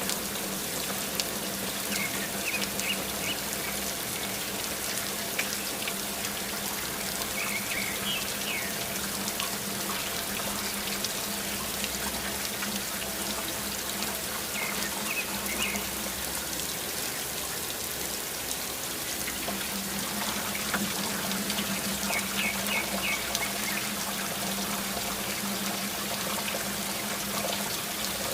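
Steady rain falling, an even hiss of many drops, with a small bird chirping in short bursts four times.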